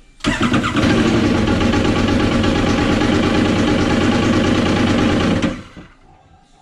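Yamaha TR-1 WaveRunner's three-cylinder four-stroke engine comes in suddenly, runs steadily and loud for about five seconds, then dies away. The ski is running rough, bogging and not staying running.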